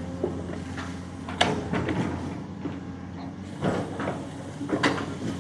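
Excavator engine running steadily while working, with three sharp clanks from the arm and bucket: about one and a half seconds in, then twice more near the end.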